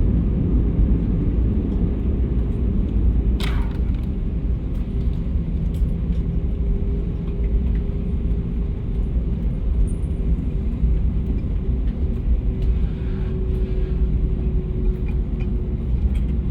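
Airliner cabin noise just after landing: a steady low rumble of the jet and its rolling on the ground, with a faint steady whine and one sharp click about three and a half seconds in.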